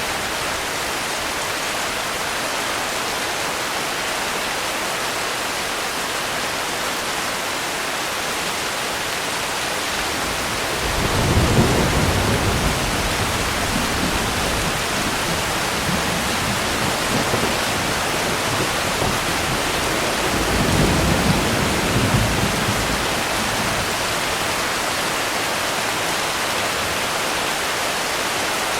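Steady heavy rain with two low rolls of thunder, one starting about eleven seconds in and a second about twenty seconds in, each rumbling for a couple of seconds.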